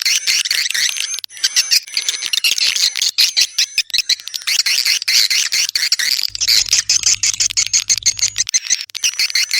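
Swiftlets twittering: a dense, continuous chatter of rapid high chirps and clicks, the kind of recorded swiftlet call played to attract swiftlets to a nesting house.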